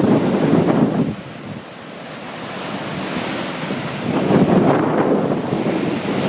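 Sea waves washing in, with wind buffeting the microphone. The wash drops away about a second in, then builds back to a fresh surge about four seconds in.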